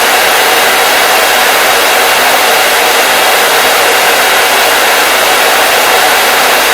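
Hair dryer running steadily, a loud even whoosh of blown air and motor noise that does not change.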